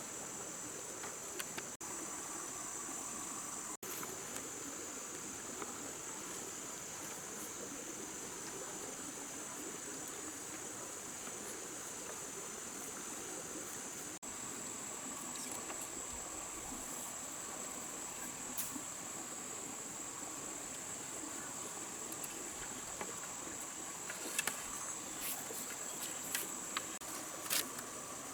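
Steady high-pitched chorus of insects, with a fainter lower-pitched layer beneath it. A few light clicks or taps come near the end.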